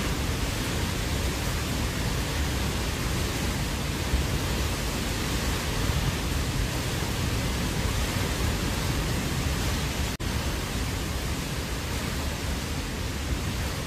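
Hurricane-force wind, a steady dense rushing noise that is heaviest and most buffeting in the low end, broken by a momentary dropout about ten seconds in.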